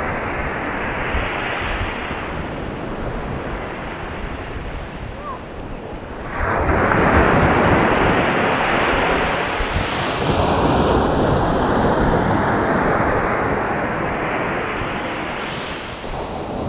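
Winter sea waves breaking and washing up the beach. One wash fades over the first few seconds, then a new wave breaks about six seconds in, rushes up and slowly ebbs near the end.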